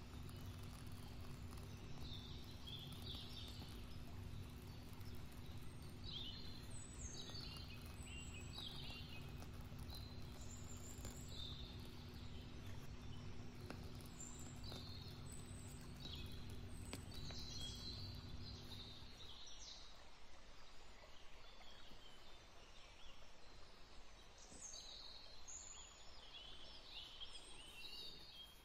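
Small birds chirping and trilling in short, scattered calls over a low steady hum; the hum stops abruptly about two-thirds of the way through while the birdsong continues.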